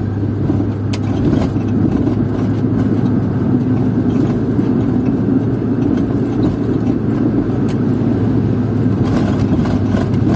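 Steady in-cabin drive noise of a Proton car: a constant low engine hum under tyre and road roar, with a few faint light clicks.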